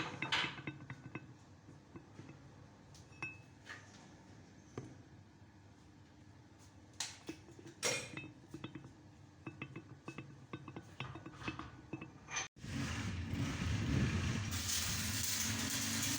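Scattered metallic clinks and taps, like tools and steel parts being handled, then after a sudden cut a louder steady shop-machine noise that turns hissier about two seconds later.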